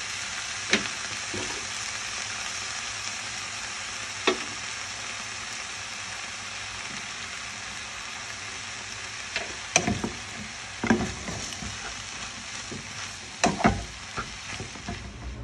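Vegetables and rice noodles sizzling steadily in a hot oiled pan as they are stirred, with a few sharp knocks of the stirring utensil against the pan and a cluster of knocks near the end.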